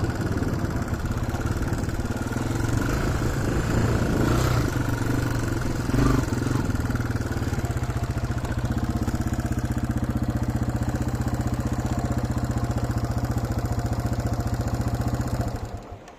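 Yamaha TW200's single-cylinder four-stroke engine running, settling into a steady, even idle about halfway through, with a brief louder knock around six seconds in. The engine sound cuts off near the end.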